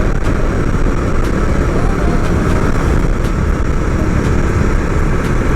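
Bajaj Pulsar 125 motorcycle running at cruising speed on the road, with steady wind rushing over the rider's microphone.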